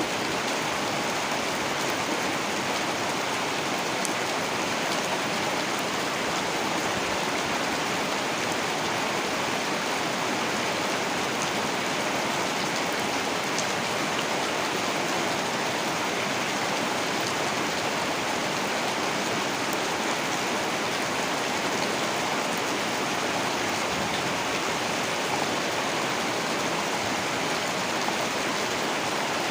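Heavy rain falling steadily, a dense even hiss of drops with a few faint individual drop ticks.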